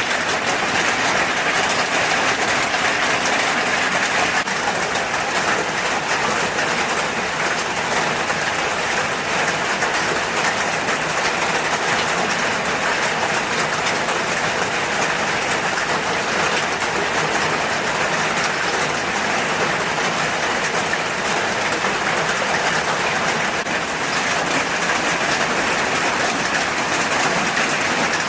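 Food frying in hot oil: a steady, even sizzle.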